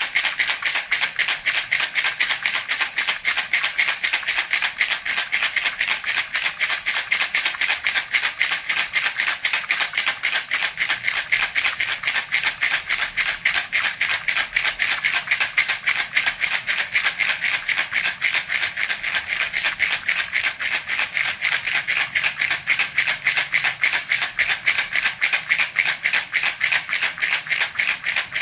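Baby rattle (jhunjhuna) shaken steadily in a fast, even rhythm, a bright rattling of many quick strokes.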